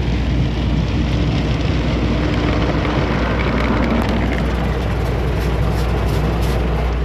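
Automatic tunnel car wash machinery running: a loud, steady roar with a deep rumble underneath.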